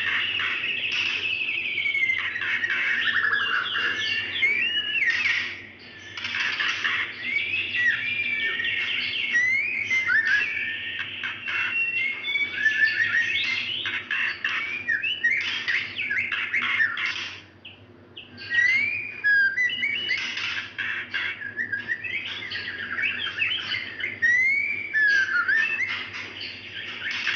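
Female white-rumped shama calling in breeding condition: fast, busy runs of sliding whistles and chattering notes, with short breaks about six and eighteen seconds in. This is the female's call to a male, used to rouse males into song.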